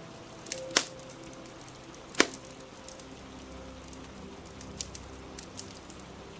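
Crackling fire with two sharp loud pops, about a second in and again a second and a half later, among fainter crackles over a steady rain hiss.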